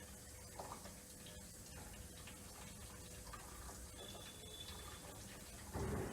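Top-loading washing machine running: a steady low hum with faint ticking, and a louder swish near the end.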